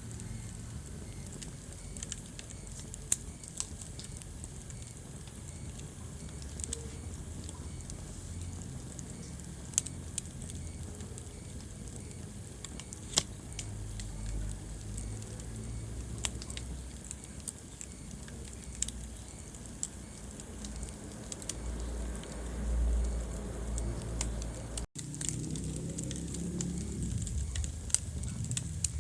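Wood fire burning in a fireplace: a low steady rumble of flames with irregular sharp crackles and pops from the burning logs. The sound cuts out for an instant near the end.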